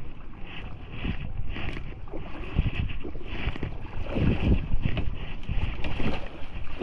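Kayak running a creek rapid: rushing, splashing water around the hull, with wind rumbling on the microphone. The water surges get heavier about four seconds in.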